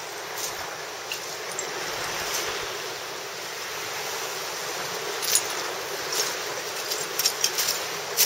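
A steady rushing of water, with several light sharp clicks and taps from about five seconds in.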